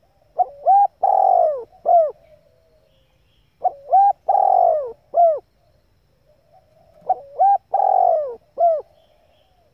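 Female spotted dove cooing, one phrase three times: two short rising coos, a long falling coo, then a short coo, each phrase about three and a half seconds apart.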